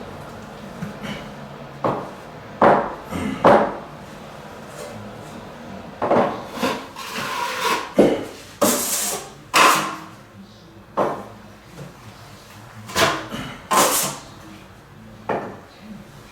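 Drywall knife working joint compound: irregular scrapes and knocks, about a dozen strokes, some sharper and hissier as the blade drags across the patch.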